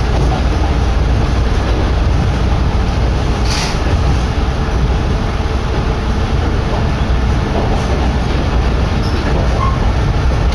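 Diesel railcar of the Kominato Railway running along the line, heard from a seat by an open window: a loud, steady low rumble of engine and wheels with wind buffeting the microphone, and a brief hiss about three and a half seconds in.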